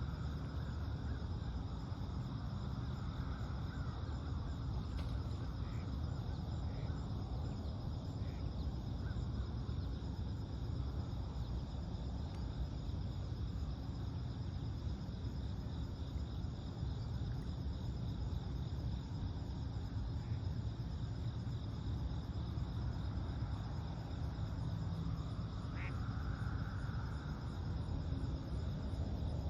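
Lakeside dawn ambience: a steady low rumble under a constant high insect trill. A few faint short bird chirps sound through it, one clearer rising chirp near the end.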